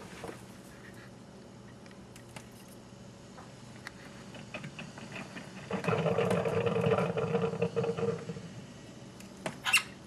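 Drip coffee maker brewing, with a louder stretch of gurgling and hissing for a few seconds past the middle. Light clicks are scattered throughout, and a short rising cockatiel chirp comes near the end.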